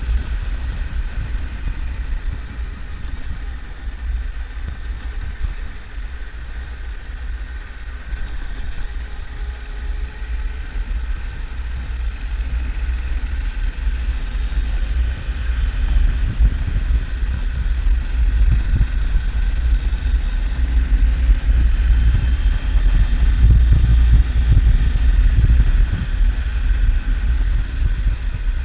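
Triumph Tiger 1200's three-cylinder engine running under way, mixed with a heavy low rumble of wind and road buffeting on the camera's microphone. It grows louder through the second half.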